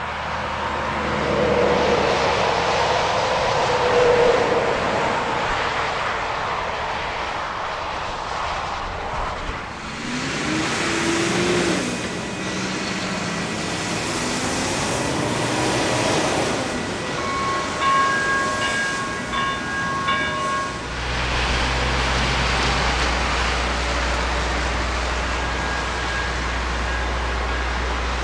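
A train running past a road grade crossing. About two-thirds of the way through, a cluster of steady tones sounds in short repeated pulses, and near the end a low steady rumble takes over.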